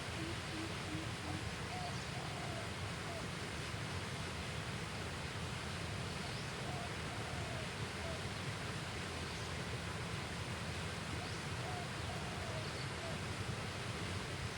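Steady hiss of outdoor riverside ambience, with a bird's short low call of a few notes repeated three times about five seconds apart, and a quick run of low notes right at the start.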